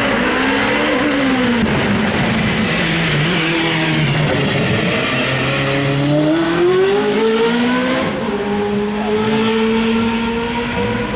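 Hill climb race car engine accelerating hard from the start. Its pitch climbs, drops at a gear change about eight seconds in, then holds steady.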